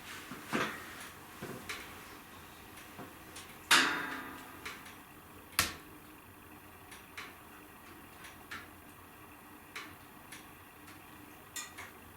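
Wood fire in a fireplace crackling, with irregular snaps and pops over a low hiss; two louder pops, about a third of the way in and about halfway.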